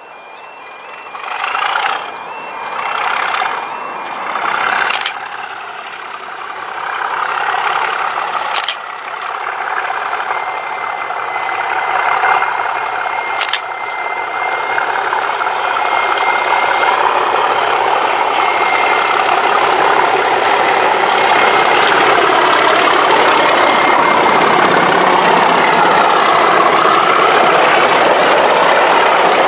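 Class 37 diesel locomotive's English Electric V12 engine working hard under power, growing steadily louder as it approaches. There are three swells in the first few seconds, then a continuous, building sound.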